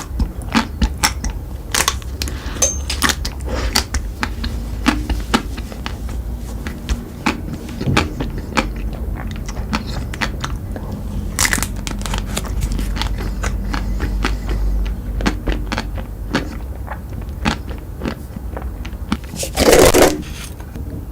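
Close-miked eating of crunchy chocolate sweets: many irregular sharp crackles and crunches of bites and chewing, with one louder crunch near the end.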